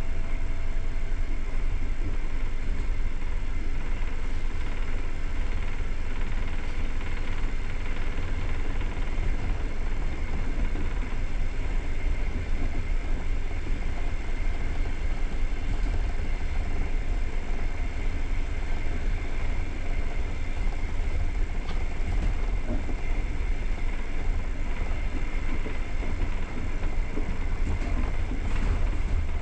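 Passenger train running along the line, heard on board: a steady low rumble of the coach's wheels on the rails, with no rail-joint clicks.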